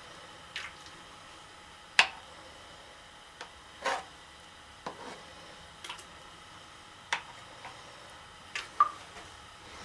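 A metal utensil clinking and tapping against a cooking pot as boiled chicken is skimmed or lifted out of its broth: about eight sharp clicks at irregular intervals, the loudest about two seconds in.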